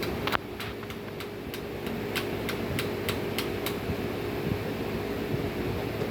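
Steady mechanical hum, like a fan or air-conditioning unit running, with a run of sharp light clicks about three a second over the first three and a half seconds.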